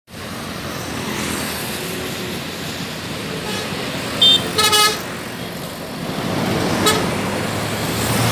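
Steady road-traffic noise of passing vehicles, with a short horn toot just after four seconds, a longer horn blast right after it, and a brief toot near seven seconds.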